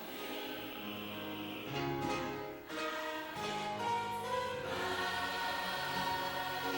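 Gospel choir singing with instrumental backing, holding long notes between lines of the song.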